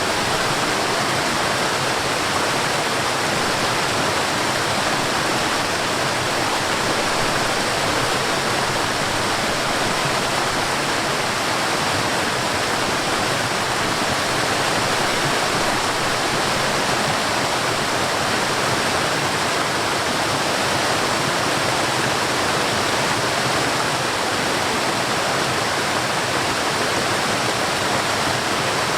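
Waterfall rushing steadily, a dense even roar of falling water with no breaks or separate splashes.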